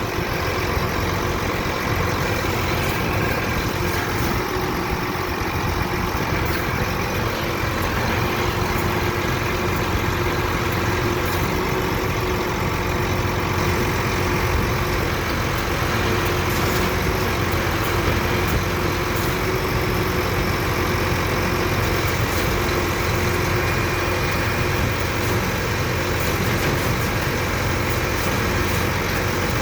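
Truck engine idling steadily, a constant drone that does not rise or fall.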